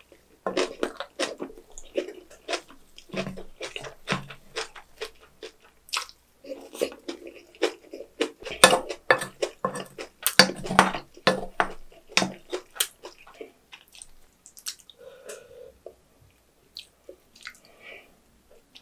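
Close-miked chewing of napa cabbage kimchi and rice: wet crunching and smacking, dense for the first dozen seconds, then thinning to scattered clicks near the end.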